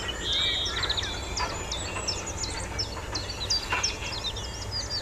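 Songbirds singing: many quick, high chirps and short sweeping notes, with a brighter trill in the first second, over a low steady rumble.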